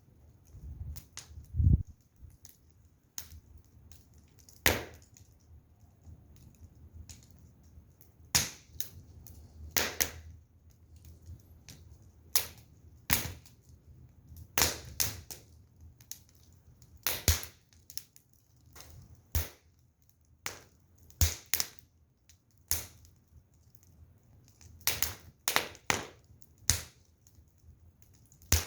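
Firewood fire crackling, with sharp, irregular pops and snaps one or more times a second; a low rumble in the first couple of seconds.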